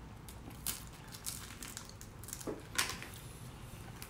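Crisp, fried cannoli shell crunching as it is bitten and chewed: a scatter of short crackles about a second apart, the loudest near three seconds in.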